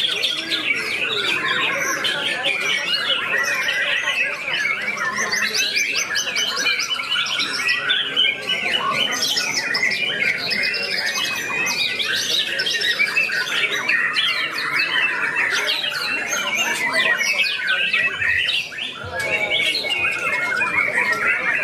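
White-rumped shama singing continuously: a fast stream of varied whistles, rapid trills and harsh chattering phrases with no pause, dipping briefly near the end.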